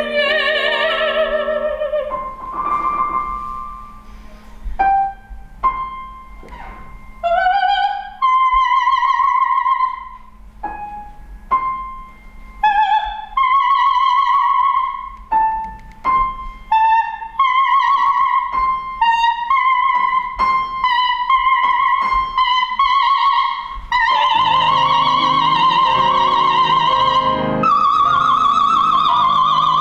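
Operatic soprano singing a coloratura waltz passage with piano accompaniment: a run of short, separate high notes with vibrato, then from about two thirds of the way through long held high notes over a fuller piano part.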